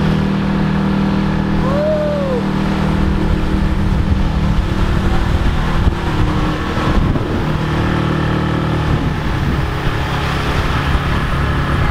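A vehicle's engine running steadily with a continuous rumble, as heard during a ride. There is a short rising-and-falling tone about two seconds in.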